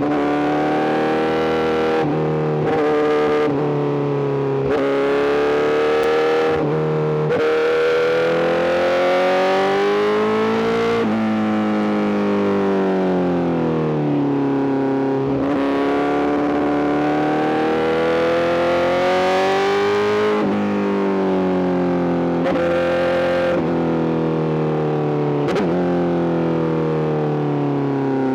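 Honda CBR1000RR-R SP's inline-four engine through a full Arrow GP exhaust, ridden hard. Its pitch climbs and falls again and again, with short breaks at the gear changes, which come quickly in the first several seconds and then give way to longer, slower rises and falls.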